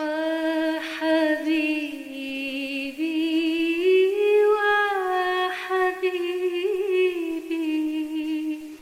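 A woman singing a cappella in Arabic hymn style: long held notes that slide slowly up and down with vibrato and ornaments, ending just before the close.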